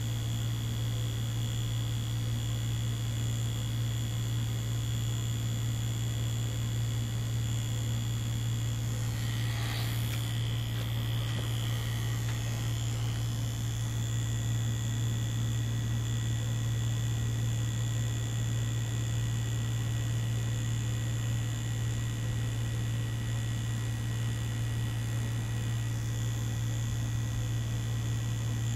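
Mummy Anubis tattoo machine running with a steady low buzz as it drives the needle into fake skin. A brief scratchy rustle comes about ten seconds in.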